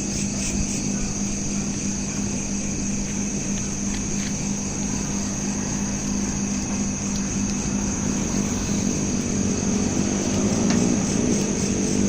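Crickets chirping in a steady, pulsing high trill over a steady low hum. Near the end a motor vehicle's engine drone rises in pitch and grows a little louder.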